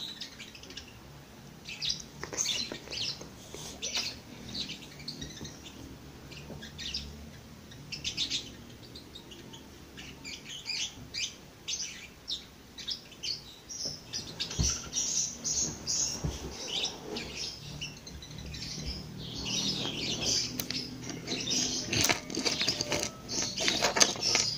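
Small birds chirping and twittering, many short high calls overlapping, busiest in the last few seconds.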